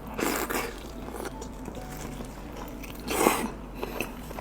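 Close-up biting and chewing of a fatty piece of lamb, with short wet mouth noises just after the start and a louder bite about three seconds in.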